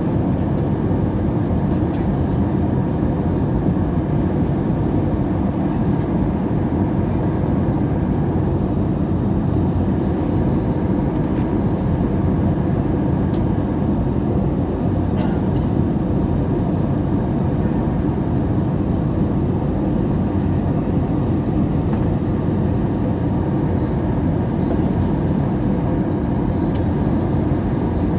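Airbus A321 in flight, a steady drone of engine and airflow noise, with a few faint clicks.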